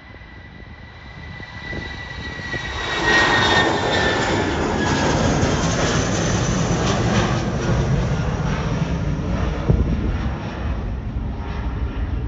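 Jet airliner's engines passing close: a high whine that sinks slightly in pitch as the engine noise builds sharply about three seconds in, then stays loud and broad before easing off a little near the end.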